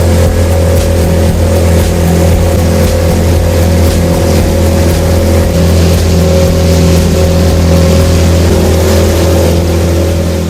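Tohatsu 18 hp outboard motor running steadily under way, a constant loud drone with water and wind noise over it.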